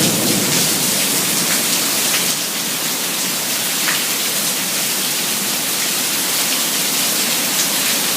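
Heavy rain pouring down in a thunderstorm, a steady dense hiss with the odd louder drop.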